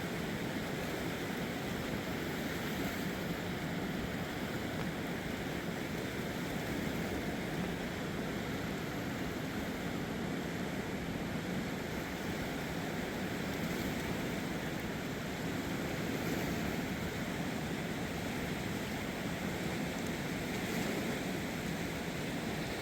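A river swollen by heavy rain, rushing steadily with an even roar of water.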